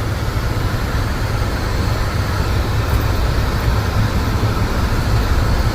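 Jeep engine and drivetrain running steadily in four-wheel low, third gear, crawling through snow at about 10 mph.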